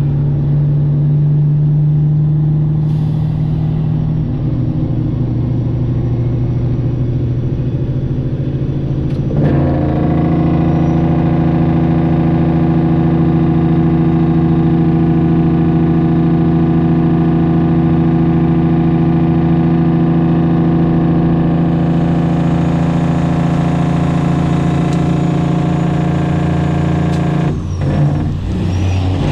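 Straight-piped Detroit Diesel 12.7 engine of a Freightliner Classic XL semi truck running on the road at steady revs. Its note becomes louder and fuller about nine seconds in, and it dips briefly near the end.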